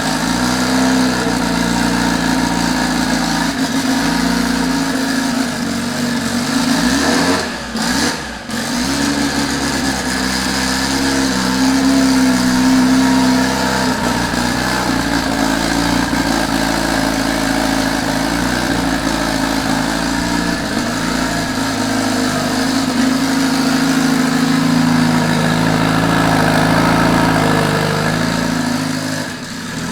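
Acura Integra's B-series four-cylinder engine running, its revs rising and falling, with a brief dip in revs about eight seconds in.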